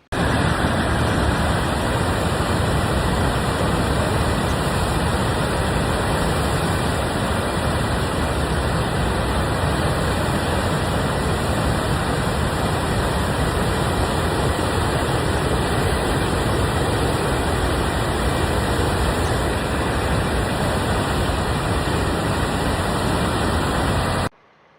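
Steady rushing of a river in flood over a waterfall, an even noise that starts and cuts off abruptly.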